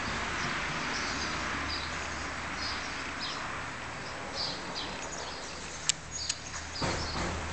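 Small birds chirping in short repeated calls over a steady outdoor background noise, with two sharp clicks about six seconds in and a brief burst of noise near the end.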